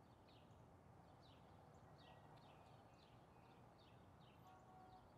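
Near silence: faint room tone with small birds chirping faintly in the background, short chirps about two a second.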